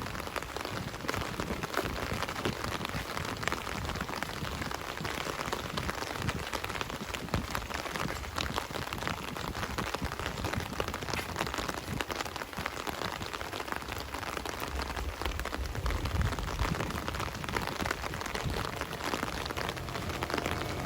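Steady rain falling, a continuous hiss made up of countless small drop impacts.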